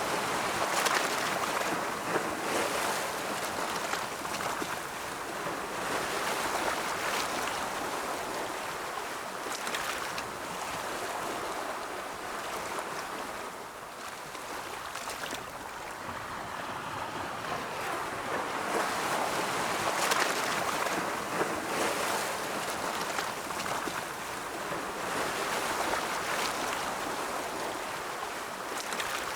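Ocean surf: waves rolling in and washing back in a continuous rush that swells and eases every few seconds.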